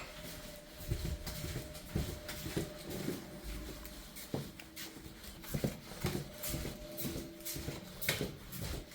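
Irregular soft knocks and shuffling in a small room, with a faint steady hum underneath.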